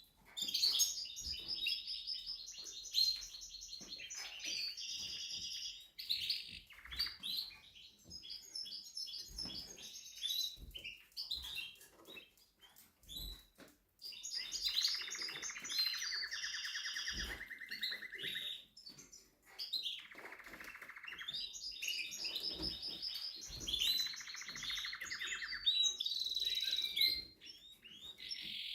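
Timbrado Español canary singing in phrases of fast repeated trilled notes. Several phrases drop from a high trill to a lower one, with short pauses between phrases.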